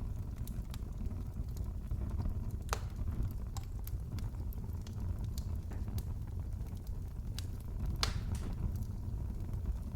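Wood fire crackling in a fireplace: a steady low rumble of flames with irregular sharp pops and snaps, the loudest two about three seconds in and about eight seconds in.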